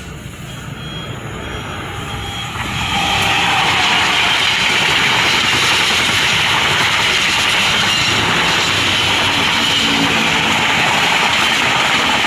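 Train passing close by on the line. Its running noise builds over the first three seconds, then stays loud and steady.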